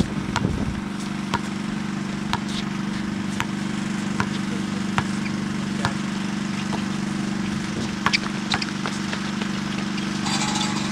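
Sharp, short knocks or clicks, roughly one a second, over a steady low hum.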